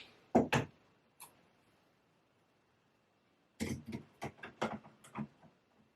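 Handling noise: two short clicks near the start and another about a second in, then a quick run of light clicks and taps lasting about two seconds, from about three and a half seconds in.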